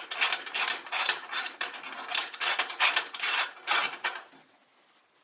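Metal filler cap on the lantern's kerosene tank being turned, its threads grating in a run of quick scraping strokes that stop about four seconds in.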